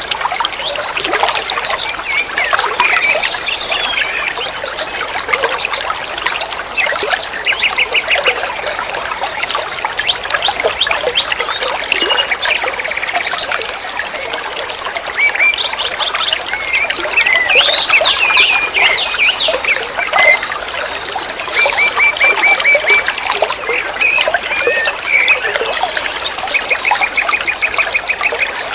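Songbird chattering in a continuous, varied song of quick chirps and sweeps, broken by fast rattling trills.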